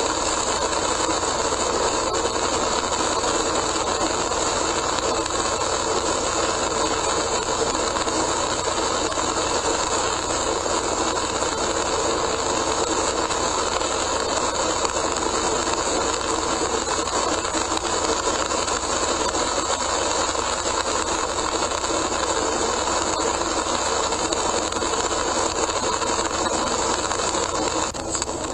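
Steady driving noise of a car at expressway speed on a rain-soaked road, tyre spray and rain hiss over the drivetrain hum, picked up by a dashcam microphone inside the car. It dips slightly near the end.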